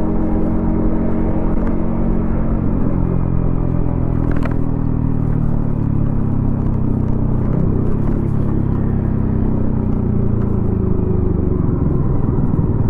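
Yamaha XSR155's single-cylinder engine running through a DIY exhaust while riding at low, fairly steady revs, the engine note falling near the end. A brief high tone sounds about four and a half seconds in.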